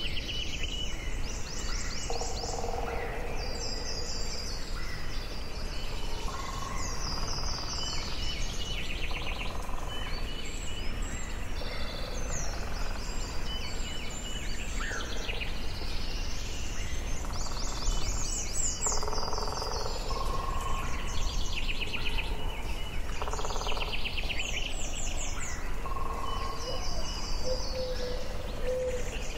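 Forest birdsong: several birds singing and calling over one another, with fast high trills and shorter whistled phrases, over a steady low background noise.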